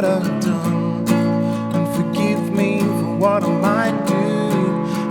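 Music: strummed acoustic guitar playing an instrumental passage of a song.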